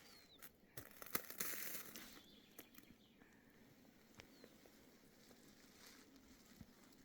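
Faint outdoor ambience: scattered sharp clicks and a short rustling hiss about a second in, with a brief high chirp near the start.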